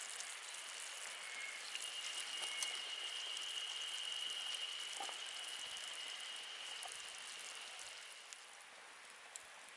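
Wood fire crackling and hissing, a dense patter of fine ticks over a steady hiss. A thin, high, steady whistle sounds from about two seconds in and fades out near the end.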